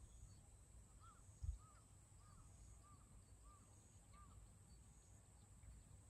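A bird calling a series of six short, thin whistled notes, each rising and falling, evenly spaced a little over half a second apart, faint over a hushed rural background. A brief low thump about one and a half seconds in.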